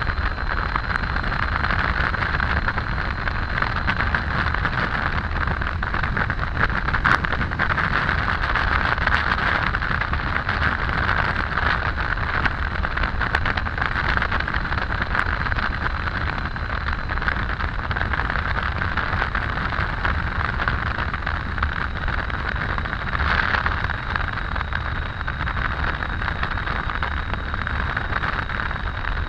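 Triumph Tiger 800 inline-three motorcycle riding at a steady cruising speed: a constant rush of wind and road noise over a low engine drone, with a faint steady high whine.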